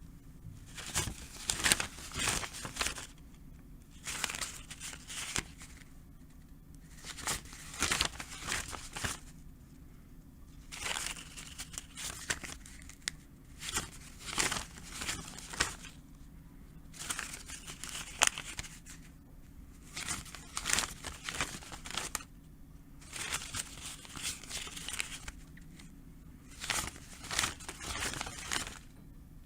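Paper banknotes being counted by hand: bursts of crisp rustling and flicking strokes that recur every second or two, over a steady low hum.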